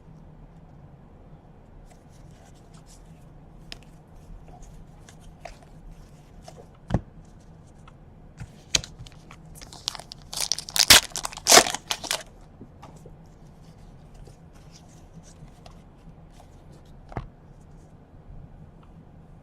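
Wrapper of a baseball card pack being torn open, a dense cluster of crackling rips about halfway through, with scattered clicks and taps of cards being handled before and after.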